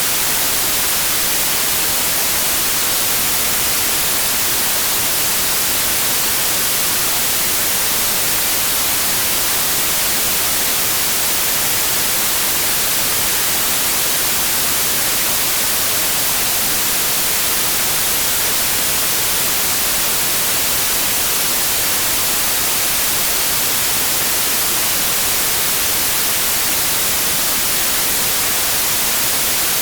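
Steady white noise: an even, unchanging hiss with no tones or rhythm in it.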